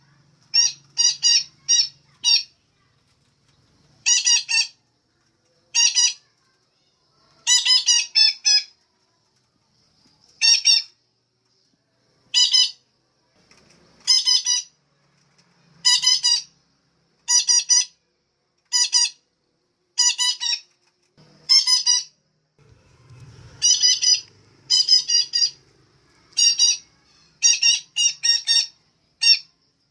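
Female betet parakeet calling: short, clipped, high calls repeated over and over, singly or in quick runs of two to five, with a second or two between groups.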